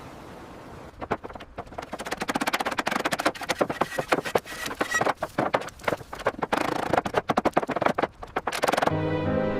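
Rapid, irregular knocking and clicking, many sharp hits a second, starting about a second in. Music with held notes comes in near the end.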